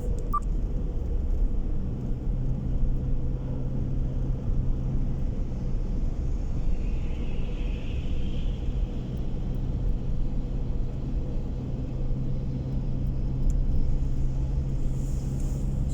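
Steady road and engine noise inside a moving car: a constant low rumble, with a low engine hum that settles in about two seconds in.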